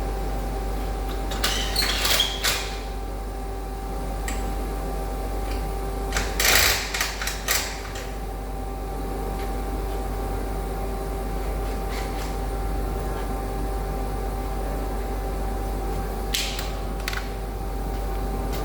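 Three short bursts of clicking and clattering, the middle one the loudest, over a steady electrical hum.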